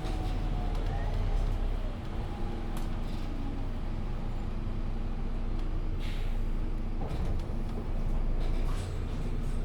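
MAN Lion's City 19C EfficientHybrid articulated city bus running, a steady engine and driveline rumble with road noise heard from on board. A brief hiss comes about six seconds in.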